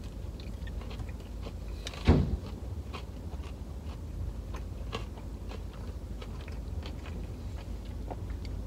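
A person biting into and chewing a fried chicken sandwich, with many small wet mouth clicks and one louder thump about two seconds in, over a steady low hum.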